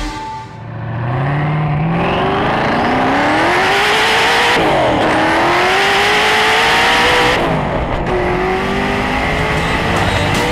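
Hennessey Venom GT's twin-turbocharged V8 accelerating hard at full throttle. The engine note climbs steadily, drops at an upshift about halfway through, climbs again, and drops at a second upshift about three-quarters of the way in.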